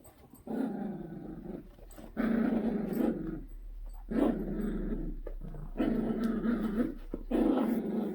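Dogs fighting, growling in repeated bouts about a second long each with short gaps between, five in a row.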